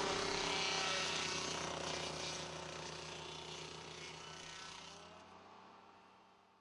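Dingo mini loader running its hydraulic stump grinder: a steady engine drone under the harsh grinding noise of the cutter wheel, fading out gradually to near silence.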